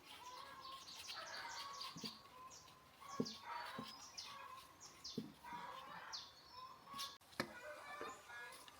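Small birds chirping with many short, quick calls, faint, with a few soft knocks in between.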